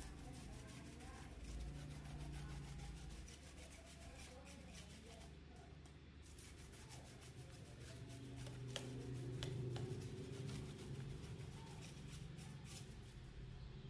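Faint rubbing and scraping of hand work, with many small scattered clicks over a low steady hum.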